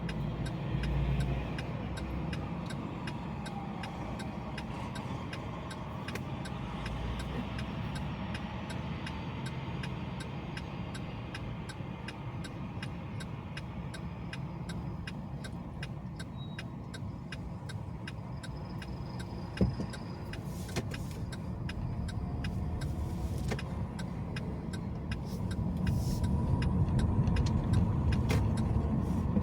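Car driving: steady road and engine noise, with a single sharp click about two-thirds of the way through and the rumble growing louder near the end.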